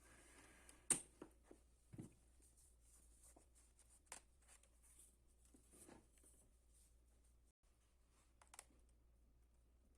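Near silence broken by a scattering of faint clicks and taps, the sharpest about a second in.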